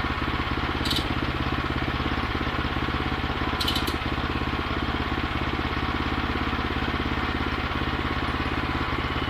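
Gasoline engine of a Woodland Mills bandsaw mill running steadily at an even speed, with no change in load. Two brief high clicks come about a second and about three and a half seconds in.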